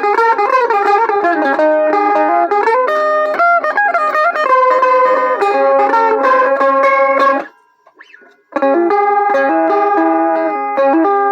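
An old Harmony electric mandolin playing a melody with held, ringing notes. It breaks off for about a second near the eight-second mark, then starts again.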